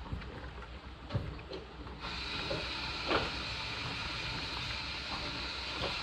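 Washing machine with scattered clicks and knocks over a low hum. About two seconds in, a steady hissing rush starts suddenly and keeps going.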